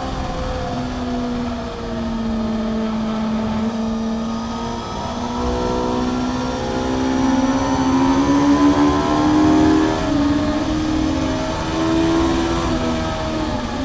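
Honda CBR600F's inline-four engine through its Mivv aftermarket exhaust, heard from onboard at track pace. The revs sink over the first few seconds, then climb again from about five seconds in, dip briefly and rise once more near the end.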